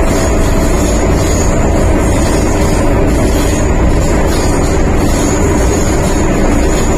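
Steady loud running noise inside an MTR M-Train carriage on the move: wheels on rail and running gear rumbling, with a thin high whine over it.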